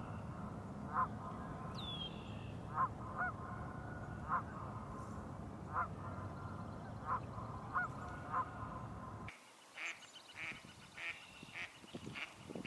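Geese honking, single calls about once a second. About nine seconds in the sound cuts to quicker, higher-pitched bird calls.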